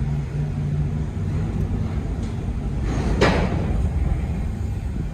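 Car on the road: a steady rumble of tyres and engine with a hiss, and a single knock about three seconds in.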